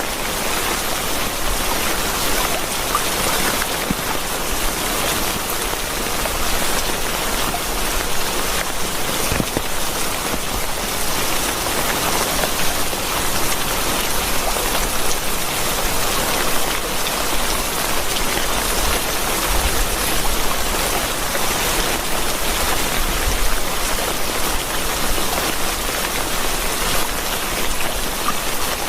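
Steady rain falling, an even dense patter of drops with no change in strength.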